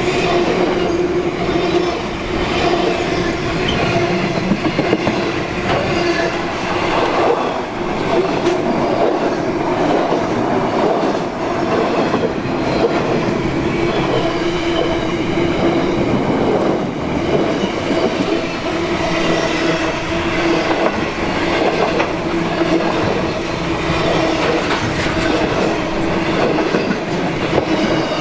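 A train running past without a break, its wheel and rail noise carrying a steady two-note hum.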